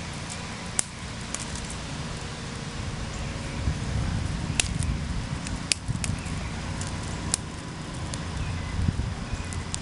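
Wind buffeting the microphone, a low rumble that grows stronger a few seconds in, over a small wood fire crackling with a handful of sharp pops.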